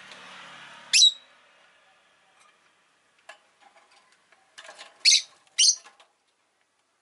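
Rosy-faced lovebird giving loud, shrill chirps: one sharp rising call about a second in, then two more in quick succession near five seconds, with faint ticking in between.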